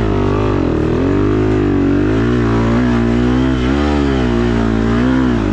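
Motocross bike's four-stroke engine running hard on track, its revs rising and falling constantly as the throttle is worked.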